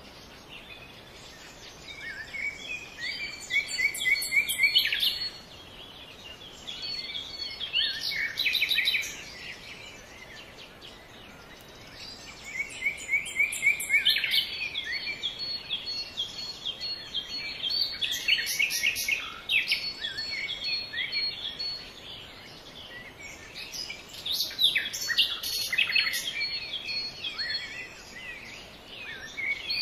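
Birds singing outdoors: bouts of rapid, high chirping notes lasting a few seconds each, with quieter gaps between.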